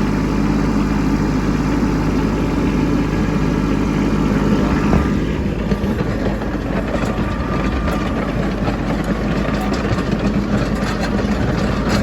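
Kubota B2601 compact tractor's three-cylinder diesel engine running steadily in mid-range under light load while pushing snow downhill.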